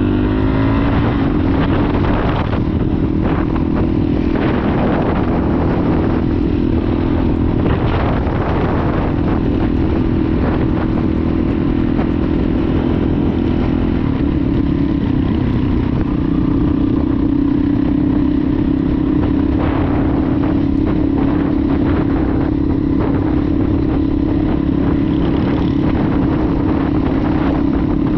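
Honda CRF450-series dual-sport motorcycle's single-cylinder four-stroke engine running under way at a steady pace, its pitch shifting a little up and down with the throttle.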